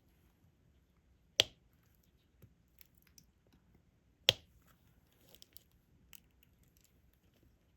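Diamond painting stylus picking up resin drills and pressing them onto the canvas: two sharp taps, about three seconds apart, among faint ticks and clicks.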